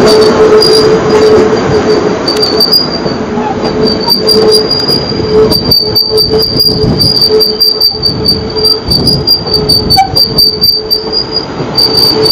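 South Western Railway electric multiple unit rolling slowly past along the platform, with a steady whine and the rumble of its wheels on the rail. A high, steady insect chirring, with rapid ticking, runs alongside it.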